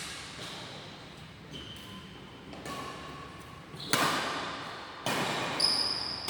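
Badminton rally in an echoing sports hall: rackets striking the shuttlecock several times, the loudest hits about four and five seconds in, with short high squeaks of shoes on the court floor.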